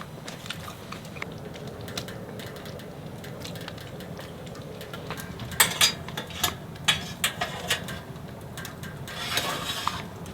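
Scattered clicks and knocks of hard objects being handled, like dishes or utensils, over a steady low hum. A cluster of sharper knocks comes a little past the middle, and a brief rustle near the end.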